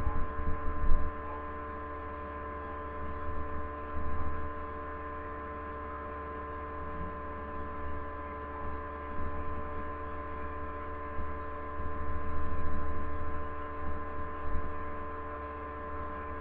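Steady electrical hum with several constant whining tones, over an uneven low rumble that swells and fades.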